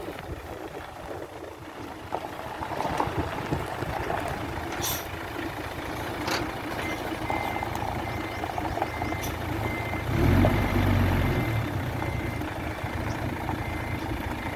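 A diesel machine's engine running, with a backup alarm beeping steadily from about seven seconds in. The engine gets louder for a second or so around ten seconds in.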